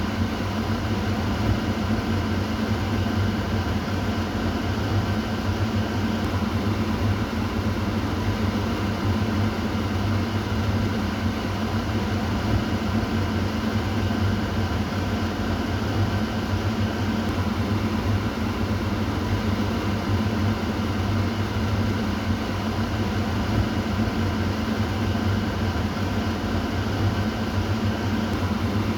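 Kitchen exhaust fan running steadily: an even rush of air over a low motor hum.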